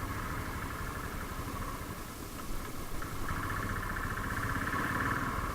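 Motorcycle engine running as the bike is ridden, a steady dense buzz that grows louder about three seconds in.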